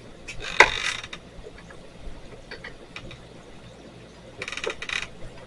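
A tool's ratchet clicking: a sharp metallic knock about half a second in, then a quick run of rapid clicks near the end.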